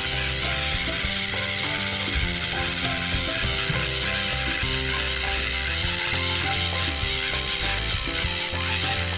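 Battery-powered toy train engines running on a wooden track, their motors and gearboxes giving a steady ratcheting clatter.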